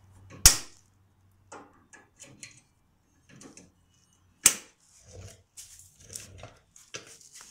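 Metal clicking and scraping as a stuck cotter pin in a riding mower's deck mount is worked at by hand, with two sharp knocks, one about half a second in and one about four and a half seconds in.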